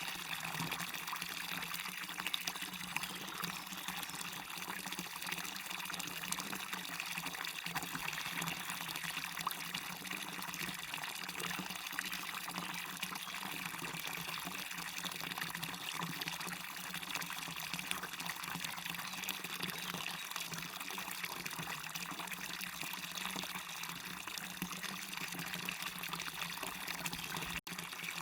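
Small waterfall splashing and rushing steadily into a stream, an even, hissy water noise. It cuts out for an instant near the end.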